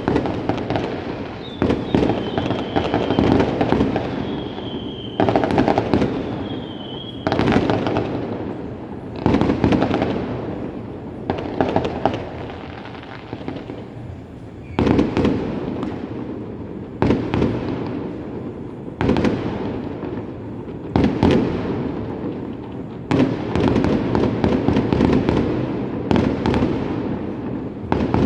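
Fireworks going off in a steady barrage: a sharp bang about every two seconds, each followed by crackling that dies away. Short high whistles come in the first few seconds.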